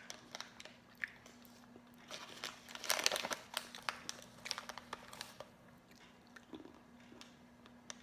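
Chewing and crunching on bacon-flavoured peanuts, with the thin plastic snack bag crinkling as a hand goes into it. Scattered small crunches, with a denser burst of crunching and crinkling about three seconds in.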